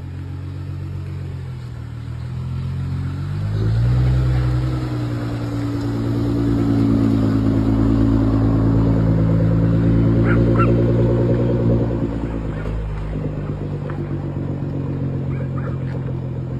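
Nissan GT-R R35's twin-turbo V6 running at low speed as the car is driven slowly. The engine note rises about three to four seconds in, holds steady, then drops back near the end.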